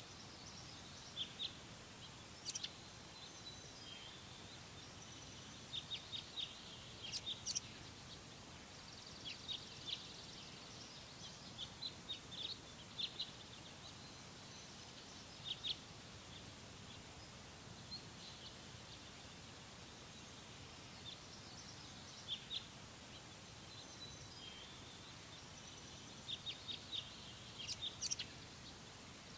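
Small songbirds singing: phrases of quick, high chirps every few seconds over a steady, faint hiss.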